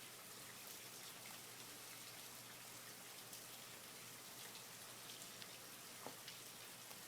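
Faint rain falling: a soft, even hiss with many small drops ticking, one a little louder about six seconds in.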